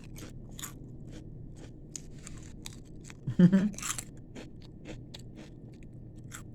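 A person chewing crunchy potato chips with the mouth close to the microphone, a string of short crisp crunches. About three and a half seconds in there is a louder moment with a brief hum of the voice.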